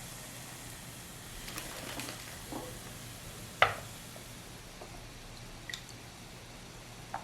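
Oil sizzling faintly as beehive cookies fry, with a few light metal clinks; the sharpest clink comes about three and a half seconds in.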